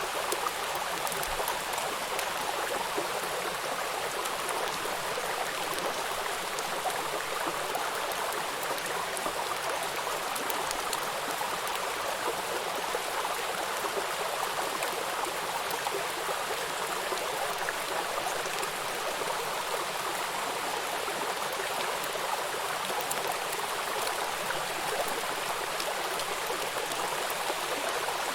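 River water rushing and splashing over rocks at a small waterfall: a steady, even rush with fine splashing crackle.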